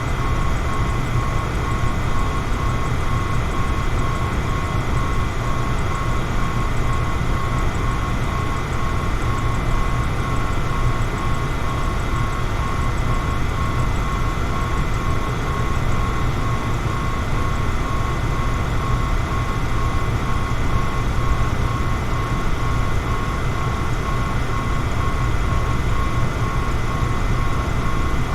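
Electric fan running steadily: an even rushing hum, heaviest in the low end, with a thin constant whine above it.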